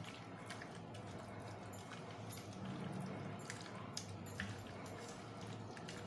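Faint wet squishing and scattered light clicks of raw chicken pieces being worked in a thick marinade, over a faint low hum.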